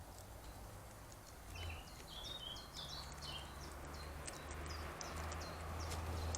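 Small birds at a feeder giving short, high chirps and call notes, a quick cluster of them about one and a half to three and a half seconds in, then scattered single calls, over a low steady hum.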